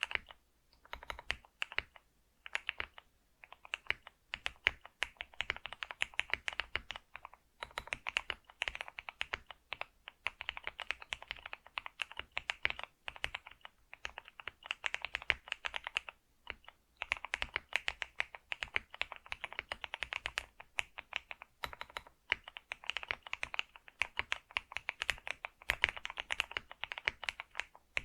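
Computer keyboard being typed on steadily: fast runs of key clicks broken by short pauses every few seconds.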